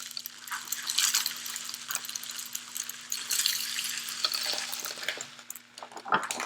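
Birdseed pouring off a piece of cardboard into a bottle and spilling over, a steady hiss of many small seeds rattling that thins out near the end into a few scattered ticks.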